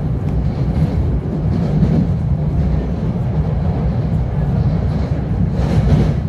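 Metro-North commuter train running along the track, heard from inside the passenger car: a steady low rumble of wheels on rail, with a brief hiss near the end.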